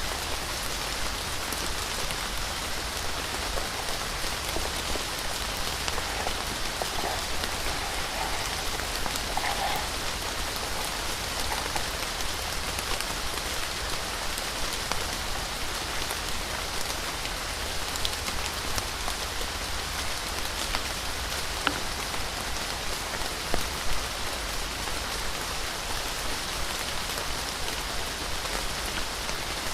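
Steady rain pattering, with two sharper knocks about two-thirds of the way through.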